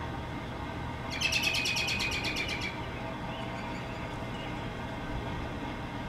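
A songbird's rapid dry trill, about a dozen notes a second, lasting about a second and a half from about a second in, over a steady low background hum.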